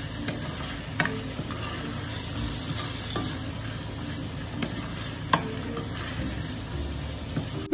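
Pork, onion, tomato and shrimp paste sizzling in a frying pan while a plastic spatula stirs them, with a few light knocks and scrapes of the spatula on the pan and a sharp click at the very end.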